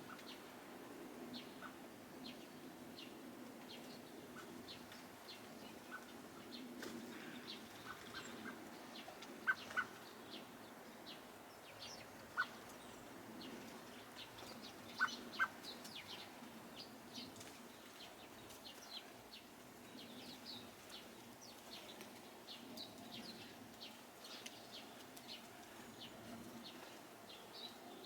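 Garden birds chirping: many short, high calls scattered throughout, with a few louder, lower single notes near the middle, two of them in quick pairs, over a faint low background hum.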